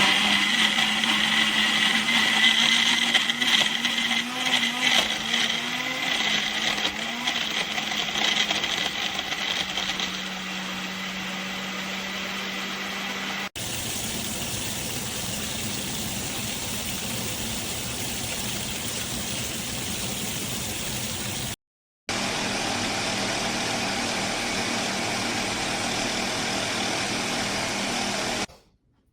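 Electric blender motor running continuously, its pitch wavering for the first several seconds and then holding steady. The sound breaks off twice briefly, once for an instant and once for about half a second.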